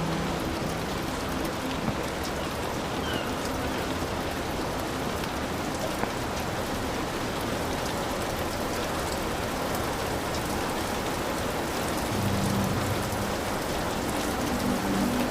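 Heavy rain falling steadily on a hut roof, a dense even hiss of drops. A low droning hum fades out about two seconds in and comes back about twelve seconds in.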